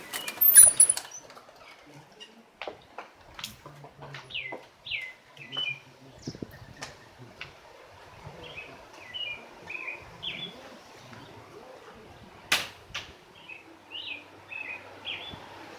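Small birds chirping and calling in short, repeated notes. Loud knocks from handling the camera come in the first second, and a single sharp click comes late on.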